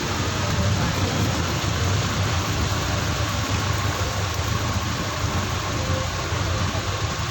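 Steady heavy rain, an even hiss with no single drops or knocks standing out, over a low steady hum like an idling vehicle engine.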